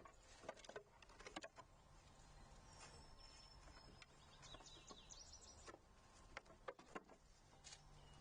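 Faint wild bird chirps, a few short high calls about three to five seconds in, among scattered soft taps and clicks at a feeder.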